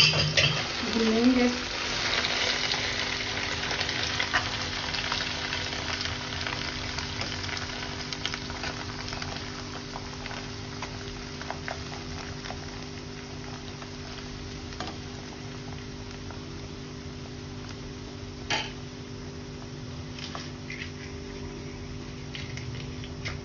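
Grated bottle gourd sizzling as it fries in hot ghee in a kadhai, with a steel spatula stirring it and clicking against the pan now and then. The sizzle is loudest in the first few seconds, then settles to a steadier, quieter hiss over a steady low hum.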